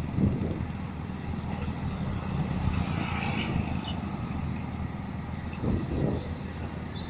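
Heavy vehicle's diesel engine running steadily at a low, even hum, with a couple of short knocks, one right at the start and one near the end.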